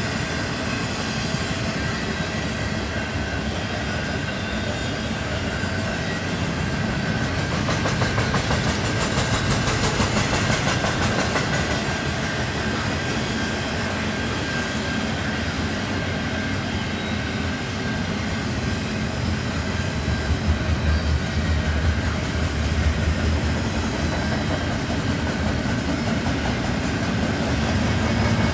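CN double-stack intermodal train's container well cars rolling past: steady rumble and clatter of steel wheels on the rails, with rapid clicking over rail joints.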